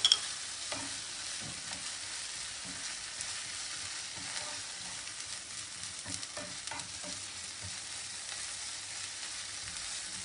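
Sliced onions, fried nearly to caramelized, and garlic paste sizzling steadily in hot oil while a spoon stirs and scrapes the pan, with a couple of sharp clinks right at the start.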